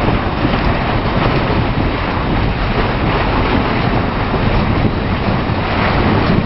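Sandstorm wind blowing hard against a tent, heard from inside it: a loud, steady rush with the tent fabric buffeting.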